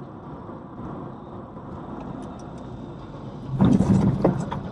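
Steady rumble of a car on the road, then a sudden loud crunching impact with several sharp knocks about three and a half seconds in, lasting under a second: a vehicle collision.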